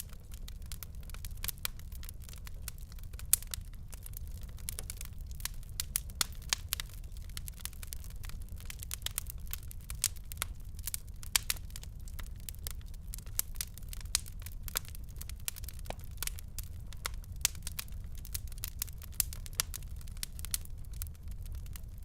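Fireplace fire crackling: frequent irregular sharp pops and snaps over a steady low rumble of the flames, with one louder pop about three seconds in.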